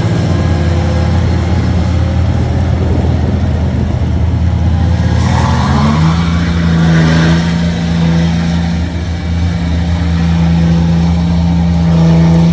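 A big-tired mud truck's engine running hard under load while bogging through mud. Its pitch steps up about halfway through and holds there as it revs higher. A rush of noise rises over it for a couple of seconds around the middle.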